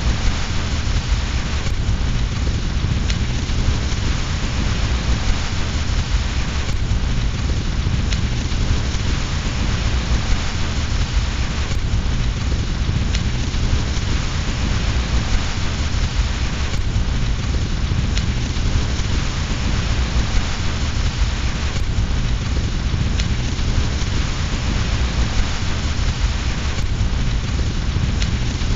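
Steady rain mixed with a fireplace fire, over a deep low rumble, with a faint click about every five seconds.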